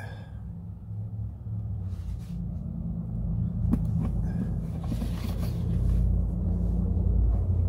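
A low rumble that grows louder over the seconds, with a few faint taps and rustles as a vinyl sticker is pressed onto a board.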